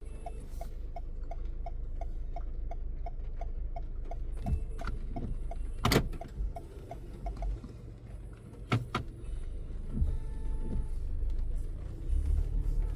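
Car running at low speed with a steady low rumble, while a turn-signal indicator ticks about three times a second and then stops a little past halfway. A couple of sharp knocks come around the middle.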